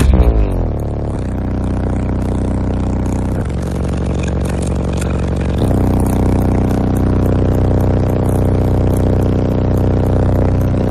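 Deep bass notes of music played very loud through six 12-inch subwoofers in a sixth-order bandpass box, with a falling bass sweep at the start and held low notes that change twice. The car's body and panels buzz and rattle throughout.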